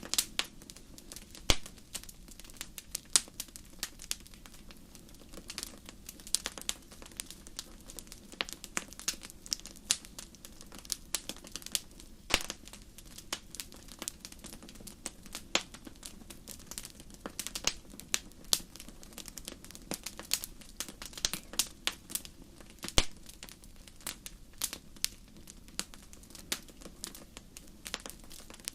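Wood fire in a fireplace crackling, with irregular sharp pops and snaps over a low steady sound of the flames.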